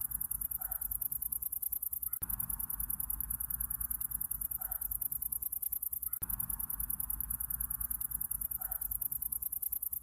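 Night insect chorus of crickets: a fast, even, high-pitched pulsing, over a soft steady hiss and a low hum. A brief lower call comes back about every four seconds, as the same short stretch of sound repeats with a tiny break each time.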